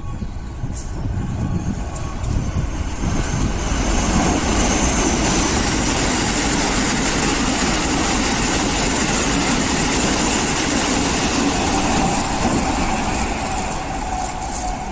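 Keikyu electric train passing through the station without stopping. The rumble of wheels on rails builds over a couple of seconds, holds loud, and fades as the train pulls away, with a thin whine near the end.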